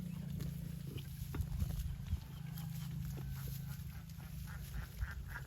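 A cow lowing: one long, low moo lasting about four seconds, followed near the end by a run of short, higher-pitched calls repeated several times.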